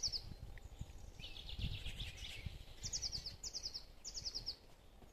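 A songbird singing short, quick trills of high notes that step down in pitch, repeated several times, with a buzzier run of notes about a second in. A low, uneven rumble runs underneath.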